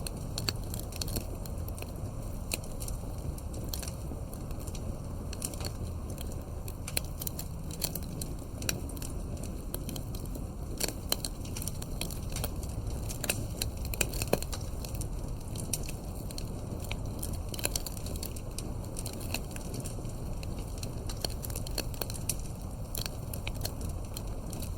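Wood campfire crackling, with frequent small snaps and a few louder pops over a steady low rumble.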